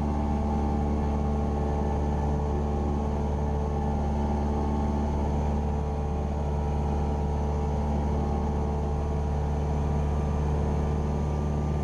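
Cessna 172R Skyhawk II's four-cylinder Lycoming engine and propeller droning steadily in flight, heard from inside the cockpit.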